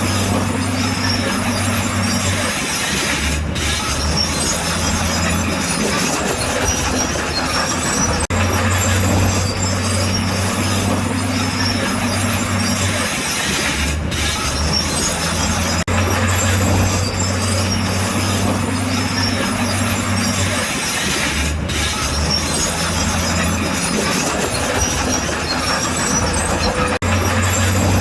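Crawler bulldozer at work: the diesel engine running loudly while its steel tracks clank and squeal. The low engine note shifts between two pitches every few seconds as the load changes, with a few brief dropouts.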